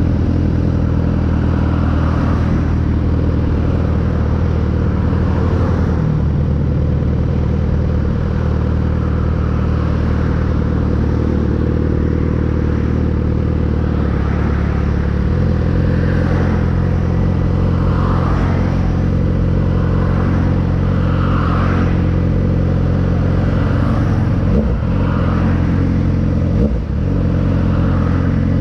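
Suzuki GSX-R 600 inline-four with an M4 exhaust running at steady cruising revs while being ridden. The engine note holds level for long stretches and changes pitch a few times, with a brief dip and glide in revs near the end.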